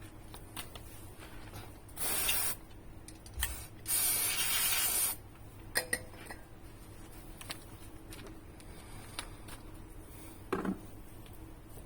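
Aerosol spray can sprayed in two bursts: a short hiss about two seconds in and a longer one of about a second at four seconds, with light clicks and taps of handling around them.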